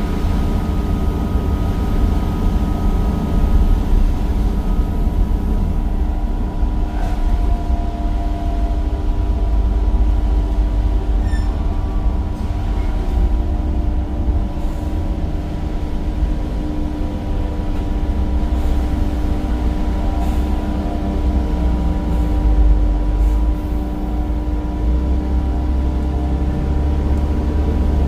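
Temsa Avenue bus's Cummins diesel engine and ZF gearbox running on the move: a steady low rumble with constant whining tones over it.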